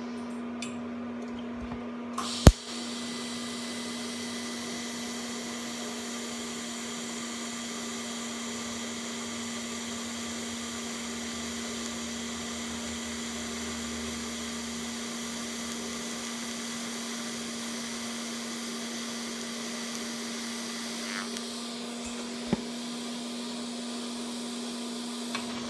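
TIG welding arc on steel: a sharp click as the arc is struck about two and a half seconds in, then a steady hiss for about eighteen seconds while filler rod is laid into the puddle, stopping about three seconds before the end. A steady hum runs underneath, with another click a second after the hiss stops.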